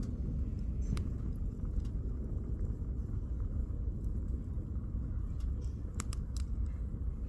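Wood campfire crackling: scattered sharp pops and snaps from the burning logs over a steady low rumble.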